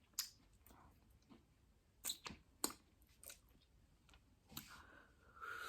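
Faint wet mouth clicks and smacks from someone chewing Doritos nachos close to the microphone, a few scattered ticks, with a brief hiss near the end.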